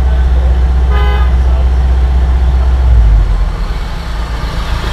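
Idling engine of a Subaru WRX STI, a steady deep rumble heard inside the cabin that eases a little about three and a half seconds in. About a second in, a short single tooting tone sounds.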